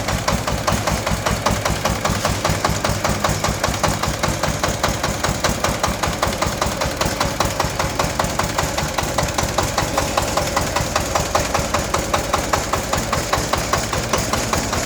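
Engine of a 25-horsepower tracked mini tractor running steadily with an even chugging beat, about six pulses a second.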